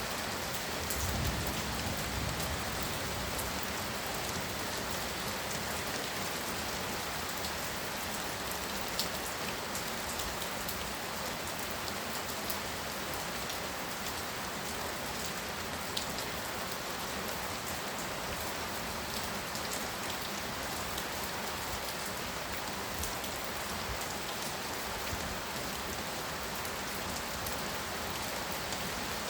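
Heavy rain falling steadily, with a few sharper drops ticking now and then and a brief low rumble about a second in.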